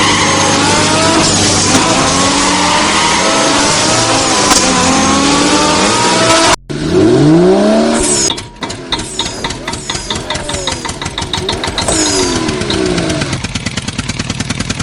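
Vehicle engine revving up and down in repeated rising and falling sweeps, broken by a sudden cut about six and a half seconds in, then a fast, even chugging rhythm.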